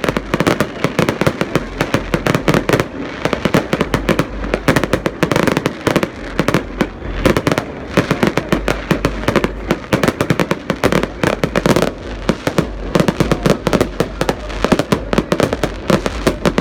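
Fireworks display going off in a dense, continuous barrage of bangs, several a second without a break.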